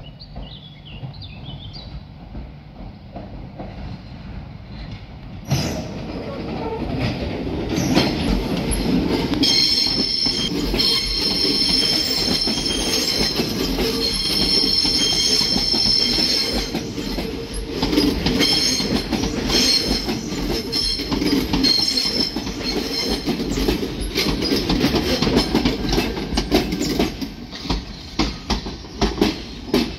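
Southeastern Class 395 Javelin electric multiple unit running past into the platform. A low rumble jumps up about five seconds in as the train reaches the microphone. A steady high-pitched wheel squeal runs through the middle, and the wheels click over rail joints near the end.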